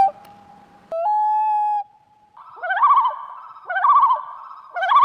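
Bird calls: a long, steady whistled note about a second in, then three wavering, trilled calls about a second apart.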